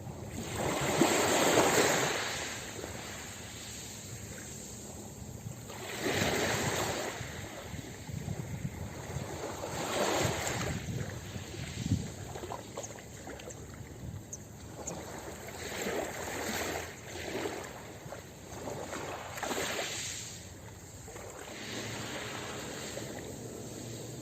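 Ocean waves breaking and washing up a beach. The surf swells and falls away in repeated surges a few seconds apart, the biggest near the start.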